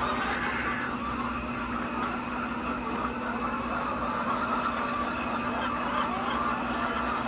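Continuous chatter of a large flock of laying hens, with a steady low hum underneath.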